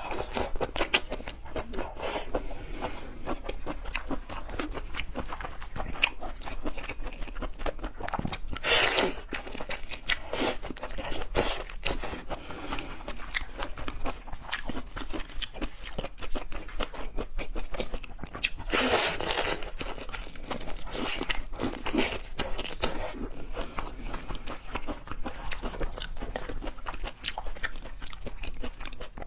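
A person chewing and crunching seafood close to the microphone, with dense clicks and smacks throughout and a few louder bouts of crunching.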